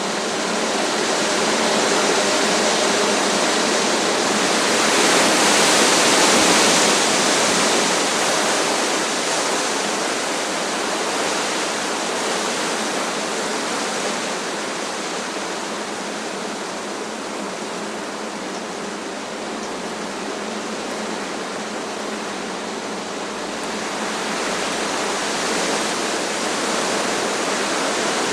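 Strong wind rushing through trees, a steady rushing that rises and falls in gusts. It is loudest a few seconds in, eases off through the middle and builds again near the end.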